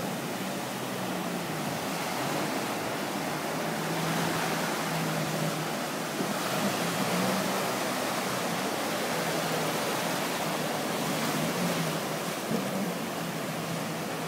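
Steady noise of wind and surf, with the faint drone of a jet ski engine rising and falling in pitch under it.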